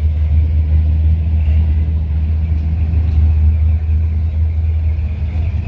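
A classic car's engine running with a deep, steady low rumble, as the car idles or rolls slowly close by.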